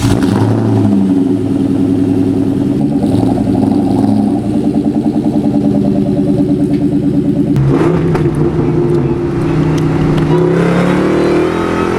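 2003 Ford SVT Cobra's supercharged 4.6-litre V8 running at a loud cold-start high idle through Borla Stinger mufflers, just after firing up. The note wavers in the middle, changes about two-thirds of the way through and climbs a little near the end.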